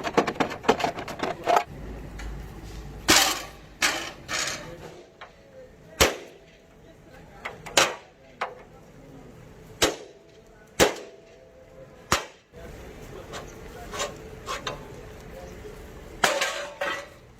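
Hammer blows on metal, sharp irregular strikes: a quick cluster at first, then single blows one to two seconds apart.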